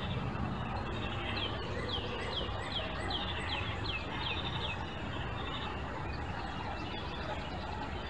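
A songbird singing a quick run of about a dozen down-slurred whistled notes, roughly three a second, starting about a second and a half in and stopping near the middle. Under it runs a steady low traffic rumble.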